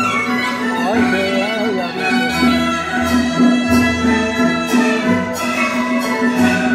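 Suona playing over a steady held drone and a pulsing low accompaniment, with quick sliding, warbling phrases about a second in that imitate birdsong.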